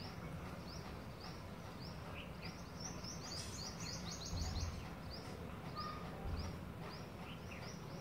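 Small birds chirping: short, high, falling notes repeated several times a second, thickest around the middle, over a steady outdoor hiss, with two soft low rumbles a little after halfway.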